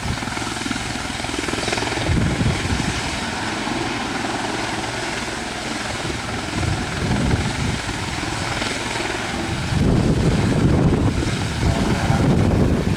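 Helicopter turbine and rotors running steadily, a steady whine over a rushing noise. Low rumbles of strong wind buffet the microphone, heaviest in the last few seconds.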